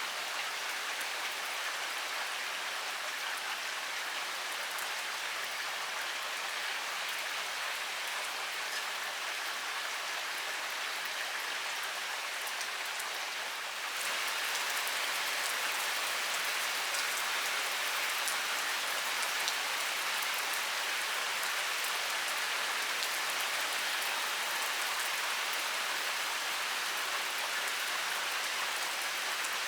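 Heavy rain pouring steadily: a dense, even hiss with the fine patter of drops. About halfway through it steps up and turns a little louder and brighter.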